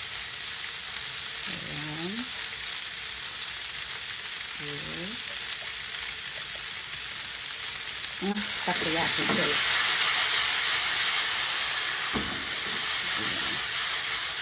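Stir-fry of udon, cabbage, vegetables and pork sizzling in oil in a hot nonstick wok, a steady frying hiss. The sizzle gets louder a little past halfway through.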